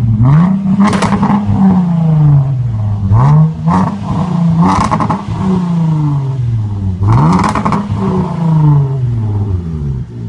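A car engine revved through its exhaust three times, each rev climbing quickly and then dropping slowly back toward idle.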